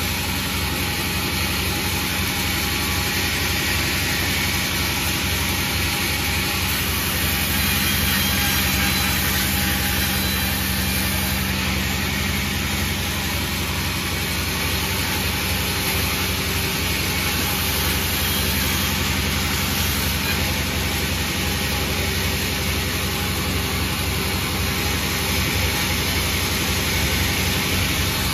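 A panda36 sawmill running steadily: a continuous machine drone with a strong hiss over it, unchanging throughout.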